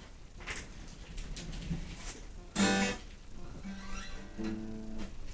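Acoustic guitar: a few light knocks of handling, a single strum about two and a half seconds in, then a couple of notes plucked and left ringing.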